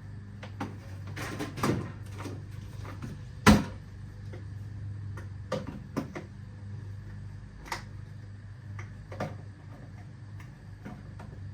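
Irregular clicks and knocks of small metal parts and tools being handled and moved around at a workbench, with one sharp knock about three and a half seconds in, over a steady low hum.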